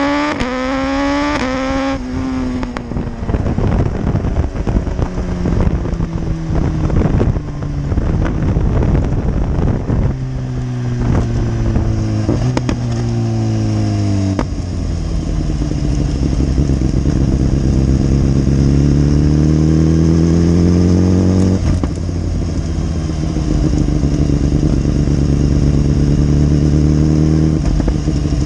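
2015 BMW S1000RR's inline-four engine on the road: it revs up through a gear and shifts just after the start, runs at changing revs with the pitch falling as it slows down before the halfway point, then pulls steadily with slowly rising pitch, shifts up about three-quarters through and cruises on. Wind rush over the microphone runs under the engine.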